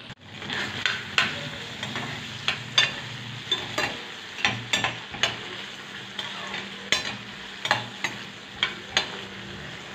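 Diced carrots, potatoes and chorizo sizzling in a glass frying pan as a spoon stirs them, with a steady frying hiss and irregular sharp clinks and scrapes of the spoon against the pan.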